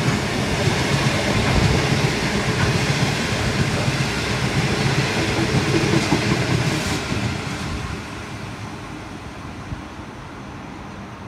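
Freight train of bogie hopper wagons rolling past, a steady rumble of wheels on rail. About eight seconds in the noise drops off as the last wagons pass and draw away.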